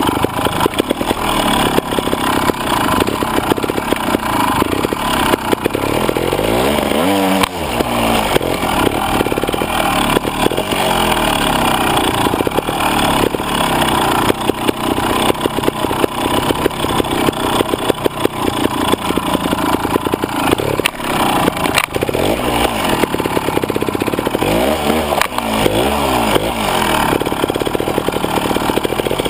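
Beta trials motorcycle engine, heard close up from onboard, running continuously as the bike rides along a rough dirt track. The revs repeatedly drop and rise again as the throttle is worked, most clearly about seven seconds in and again near the end.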